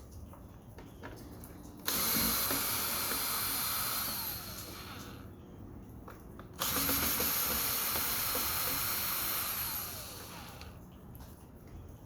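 Power drill running in two bursts of a few seconds each, backing screws out of an air-conditioner casing; each run starts suddenly and winds down as the screw comes free. Small clicks and handling knocks fall between the runs.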